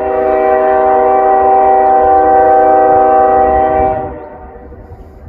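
Diesel freight locomotive's air horn sounding one long chord, cutting off about four seconds in, over the low rumble of the approaching train.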